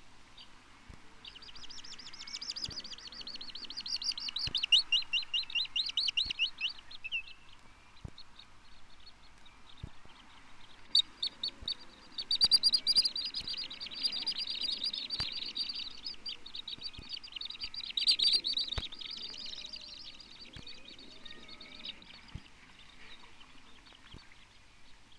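Little stint (Calidris minuta) singing: rapid, high, trilling series of notes in two long bouts, the second starting about 11 seconds in and running for about ten seconds. Faint scattered clicks from the record's surface.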